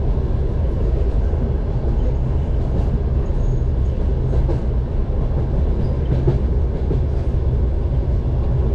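Single passenger car of a train hauled by a 2TE10U diesel locomotive running along the track, heard from inside the car: a steady low rumble with a constant low hum.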